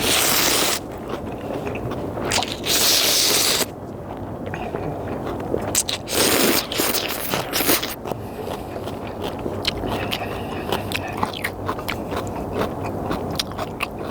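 A person slurping instant ramyeon noodles, three long slurps of about a second each, with chewing and many small clicks in between.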